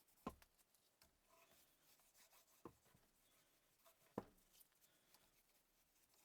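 Quiet workbench handling sounds: three sharp knocks, near the start, a little before three seconds in and just after four seconds, with light rubbing and small ticks between them, as parts or tools are handled and set down.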